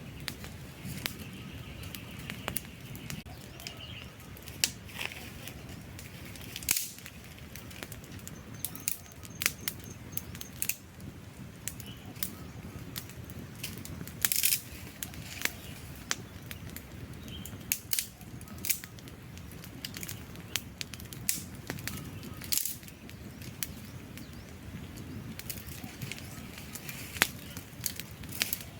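Wood campfire burning, with irregular sharp crackles and pops of varying loudness over a steady low rumble of the flames.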